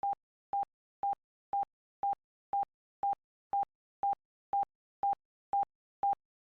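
Countdown timer beeping: short, identical electronic beeps at one mid pitch, two a second, marking off the ten seconds given to answer.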